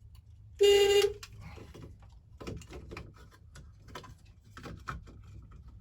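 Van horn giving one short honk about half a second in, then scattered clicks and knocks from handling the steering wheel. The horn sounds only intermittently, from a bad connection in the horn circuit at the steering wheel's slip ring.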